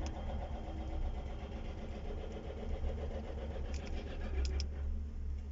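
Steady low engine hum, with a few light clicks about four seconds in.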